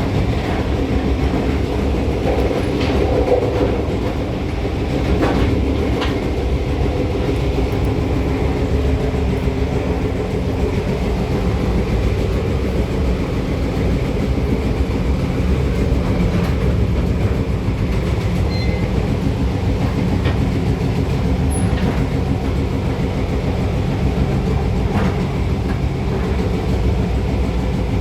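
Steam-hauled train, led by locomotive A2 986, running along the track with a steady loud rumble and occasional clicks of the wheels.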